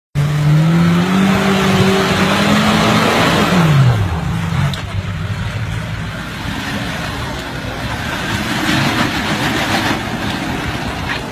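Off-road 4x4's engine revving hard under load on a muddy climb, its pitch rising slowly for about three seconds and then dropping steeply as the throttle comes off, followed by a quieter stretch of engine and outdoor noise.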